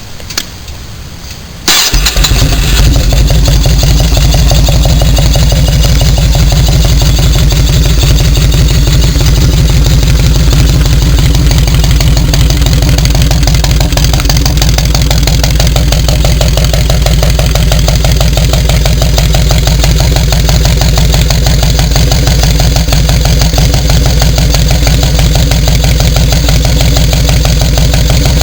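Yamaha Road Star XV1600 V-twin on Freedom true-dual shark-tail exhaust starting up: a short, quieter stretch of cranking, then the engine catches about two seconds in and settles into a loud, steady, low, loping idle.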